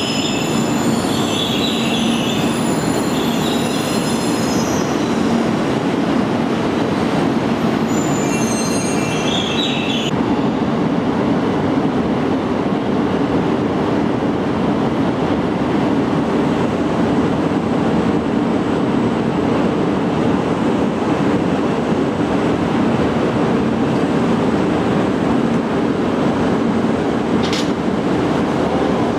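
Shinkansen train running slowly through the station: a steady, loud rumble of wheels on rail, with high wheel squeals on and off for about the first ten seconds.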